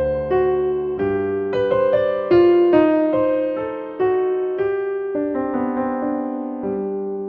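Slow, gentle solo piano music: single notes and soft chords struck and left to ring out over held bass notes.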